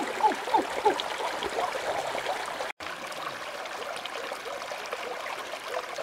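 River water trickling and gurgling, with many small bubbling plops. The sound drops out completely for an instant a little under halfway through.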